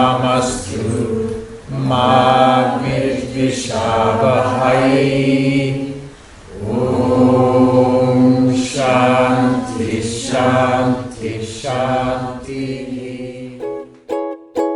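Voices chanting a mantra in long held phrases, with a short break about six seconds in. Near the end the chant stops and plucked strings begin.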